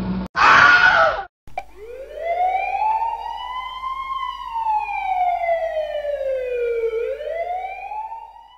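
A loud, harsh burst lasting about a second, then a siren wailing: one slow rise, a long fall and a rise again, fading out at the end.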